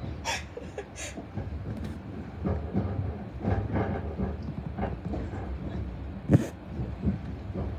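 Steady rumble of a passenger train's wheels running on the rails, heard inside the carriage, with scattered clicks and one sharp knock about six seconds in.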